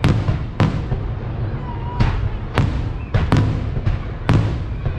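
Aerial fireworks going off: about seven sharp bangs at irregular intervals, each with an echoing tail, over a continuous low rumble.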